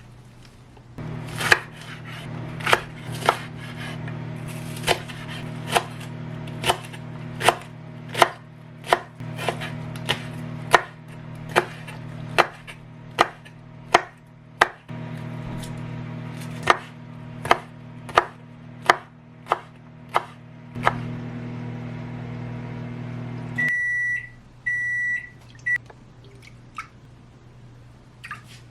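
A microwave oven runs with a steady hum while a knife chops on a cutting board in sharp, regular strokes. Near the end the hum stops and the microwave beeps three times, signalling that the cooking cycle has finished.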